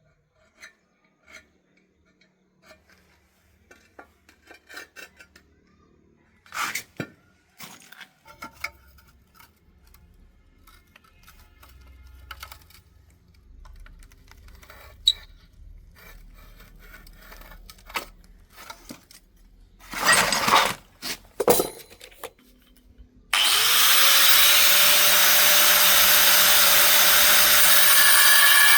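Scattered knocks, clicks and short scrapes of hand work with tools, louder in a cluster a little past the middle. Near the end a power tool starts abruptly, its motor whining up to speed, and runs loudly and steadily.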